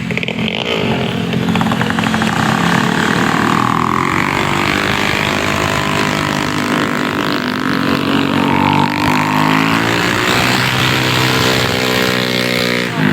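Motorcycle engine running under way, its pitch rising and falling with the revs, then climbing steadily over the last few seconds.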